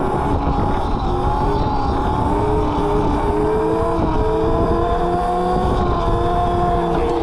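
Electric mini bike's motor whining under way, several tones rising slowly in pitch as it gathers speed and easing off slightly near the end, over a steady low rumble of wind and road.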